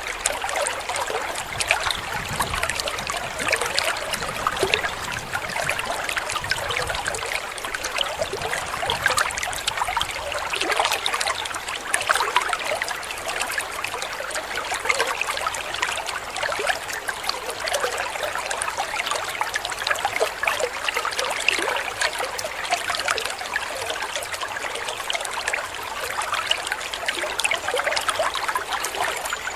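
Waterfall water splashing and trickling steadily.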